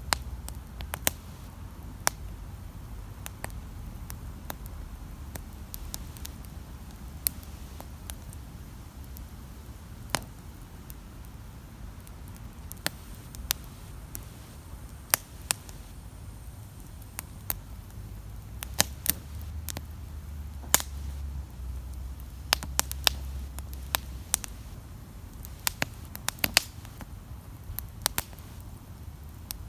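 Wood campfire crackling, with irregular sharp pops and snaps, more of them close together in the last few seconds, over a steady low rumble.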